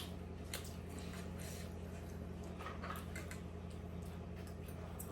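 Close-up eating sounds: soft wet chewing and mouth clicks, scattered and irregular, over a steady low hum.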